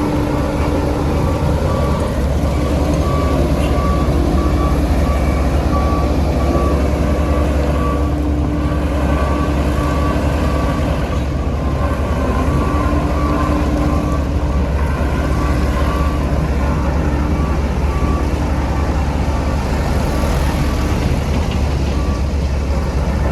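Diesel engine of heavy road-construction machinery running steadily under a low, continuous hum, with a reverse alarm beeping repeatedly.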